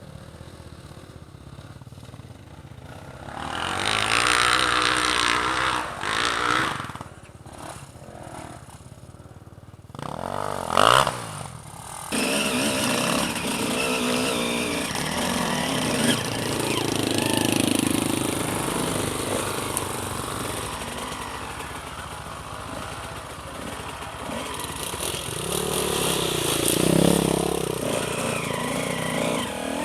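Enduro motorcycle engine running and being revved, its pitch rising and falling several times.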